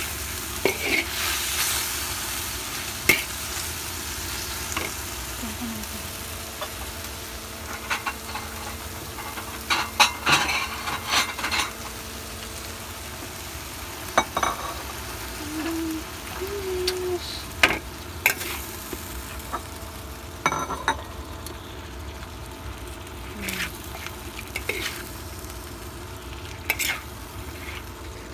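Beef and ampalaya (bitter gourd) frying in a pan, sizzling steadily, while a utensil stirs them, clicking and scraping against the pan now and then.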